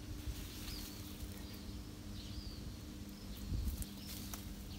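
Small birds chirping now and then, four or five short calls, over a low steady hum. Light rustles and crackles come in the second half.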